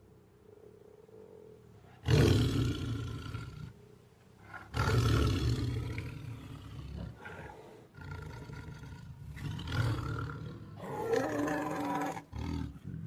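Tiger roaring: a series of roars, the first loud one about two seconds in and a longer one about five seconds in, followed by several shorter, weaker roars.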